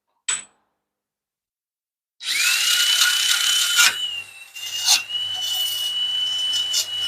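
A power tool spins up with a rising whine that settles into a steady tone, grinding and scrubbing rust and dirt off a brake backing plate. A short click comes just before it.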